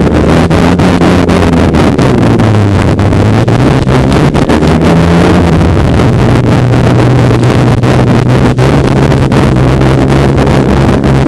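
Snowmobile engine running under way, its pitch dipping and rising a few seconds in and then holding steady. Wind buffets the microphone loudly throughout, with frequent crackles.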